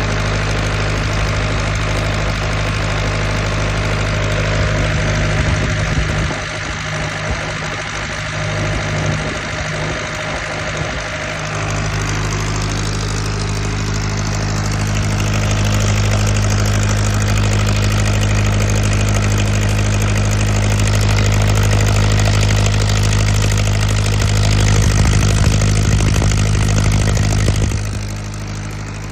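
Powertrac 4455 BT tractor's diesel engine running steadily. It dips and runs unevenly for a few seconds about a quarter of the way in, then settles to a steady, slightly louder note, and eases off shortly before the end.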